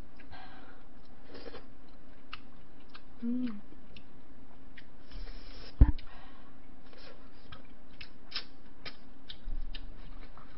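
Close-miked eating sounds: chewing and short wet mouth clicks while jjamppong noodles and mussels are eaten. There is one loud low thump a little before six seconds in.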